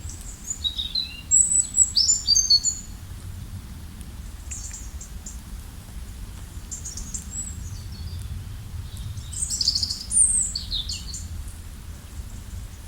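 Small songbirds chirping and twittering in quick high phrases, with a busy flurry in the first few seconds and another about nine to ten seconds in, over a steady low background rush.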